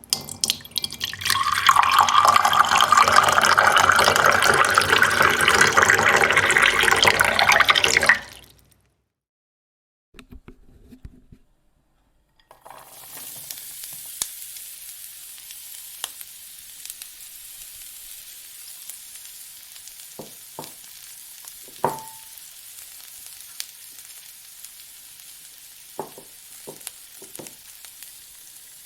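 Stock sound effects played one after another: a loud rushing, water-like noise for about eight seconds that cuts off suddenly, a brief faint sound a couple of seconds later, then a steady sizzle with scattered crackles and pops, like food frying in oil.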